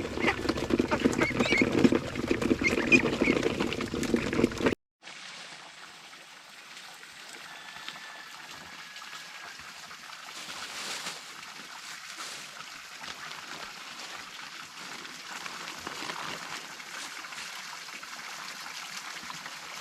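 Ducks quacking and calling, busy and loud, for the first few seconds; after a sudden cut, a quieter steady hiss like gently running water.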